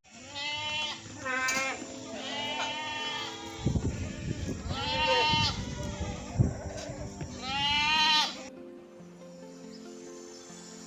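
Five separate wavering bleats from goats or sheep, with low thumps and rumbling between about 3.5 and 7.5 seconds in, over background music that carries on alone after the last bleat.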